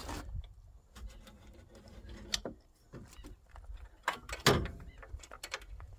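Scattered metallic clunks and knocks as a Honda N600's engine is let down out of the car, the loudest about four and a half seconds in.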